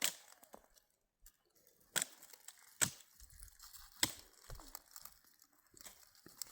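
Dry wood cracking in a handful of sharp, separate snaps, a second or so apart, as firewood is broken.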